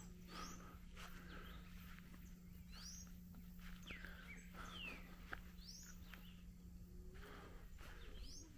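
Faint bird chirps: short, high sweeping notes every second or two, over a steady low hum.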